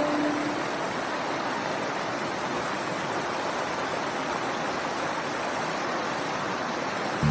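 Steady rush of flowing water, like a stream or river, with a single plucked note dying away at the very start.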